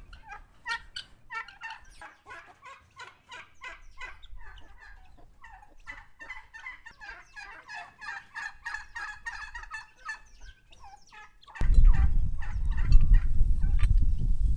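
Domestic turkey gobbling: a long run of rapid rattling calls. Near the end a sudden loud low rumbling noise takes over.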